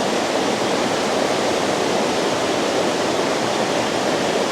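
Waterfall rushing: a steady, loud roar of falling water with no breaks.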